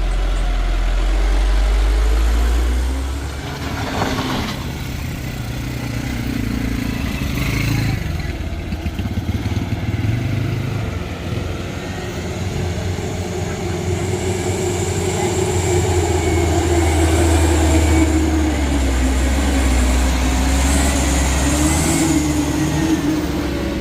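Heavy diesel truck engine running under load on a steep climb, its pitch rising and falling.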